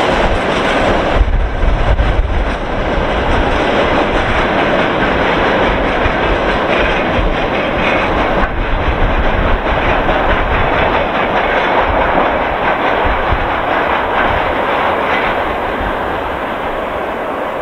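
Freight train of rail tank cars rolling past, wheels clattering on the rails in a steady, loud run that fades slightly near the end as the train moves away.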